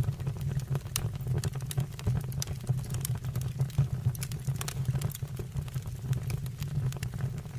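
Wood fire burning in a fireplace: a steady low rumble with frequent, irregular crackles and pops of the burning logs.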